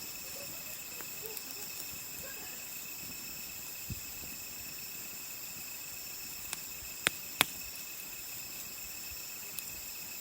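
Crickets chirring steadily in a high, even drone. Against it the campfire's burning wood gives a few sharp pops, the two loudest close together about seven seconds in.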